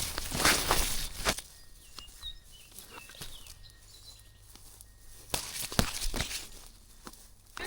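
Footsteps of a hiker walking a woodland trail, with rustling in the first second and a half and again about five seconds in. Faint short bird chirps come through in the quieter stretch between.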